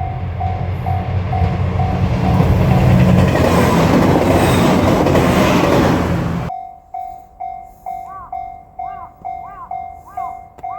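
JR Shikoku 2700 series limited express diesel train passing over a level crossing, its engines and wheels loud and rising to a peak, under the crossing bell ringing about twice a second. The train noise cuts off suddenly about six and a half seconds in, leaving the crossing bell ringing.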